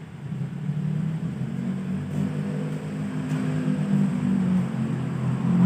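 A vehicle engine running with a low hum, getting louder.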